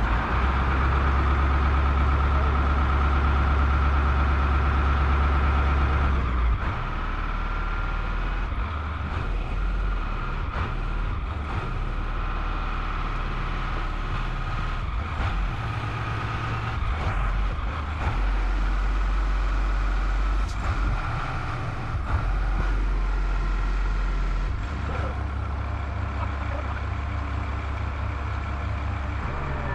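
A crane's heavy diesel engine running, its speed stepping up and down every few seconds, with a steady higher whine above the engine note.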